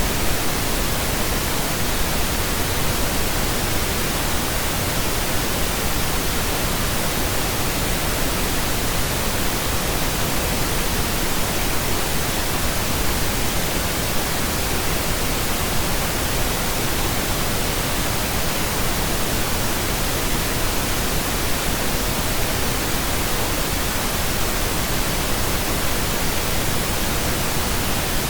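Steady pink noise: an even, unchanging hiss spread across all pitches, with no rhythm, tones or other events.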